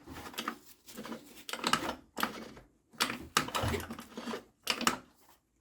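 Bursts of metallic clicking and rattling, six or seven in a row with short gaps, from hand work on a 50cc scooter engine.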